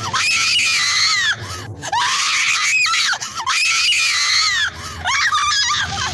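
Young women screaming in fright: a run of long, high-pitched screams one after another, about four in a row, breaking into shorter shrieks near the end.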